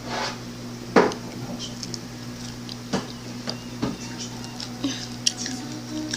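Eating close to the microphone: a handful of sharp clinks of dishware, the loudest about a second in, with small mouth clicks between them. A steady low hum runs underneath.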